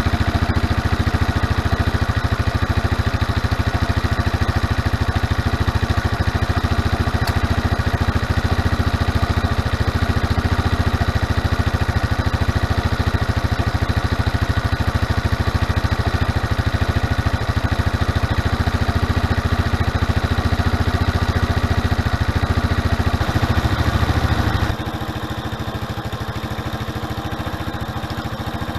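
Suzuki Address V125G scooter's single-cylinder engine idling steadily through its rust-cleaned, repainted muffler. About 25 seconds in, it turns quieter and lighter.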